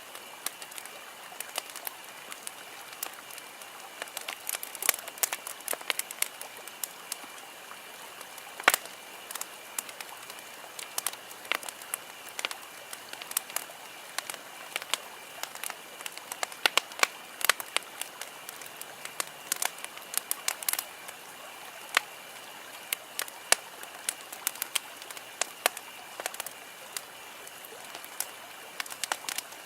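Wood campfire crackling: irregular sharp pops and snaps over a steady soft hiss, one pop louder than the rest about nine seconds in.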